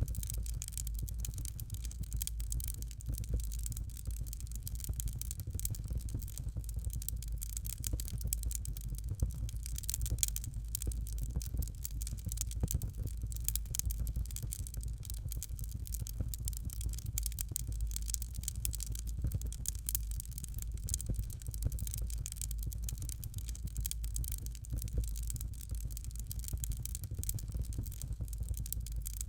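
Fireplace fire crackling: dense, rapid small crackles over a steady low rumble.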